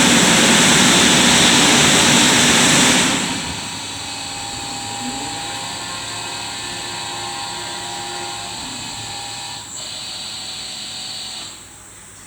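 Christ Genius gantry car wash machinery: a loud rush of air like its drying blowers, which cuts out about three seconds in. A quieter machine hum with a steady whine follows and stops near the end.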